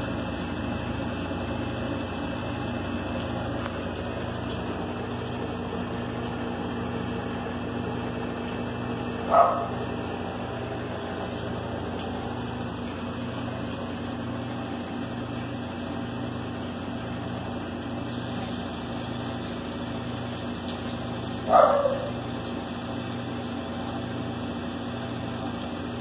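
A dog barking twice, single short barks about twelve seconds apart, over a steady low mechanical hum.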